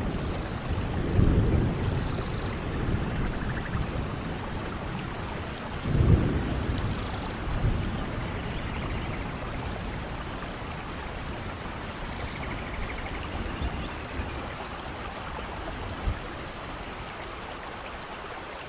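Steady rain falling in a thunderstorm, with low rolls of thunder, the strongest about a second in and about six seconds in. Faint short chirps sound now and then above the rain.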